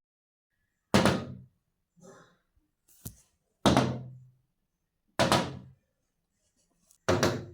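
Four loud thuds, each dying away over about half a second, spaced about one and a half to two and a half seconds apart, with a couple of faint softer knocks between them.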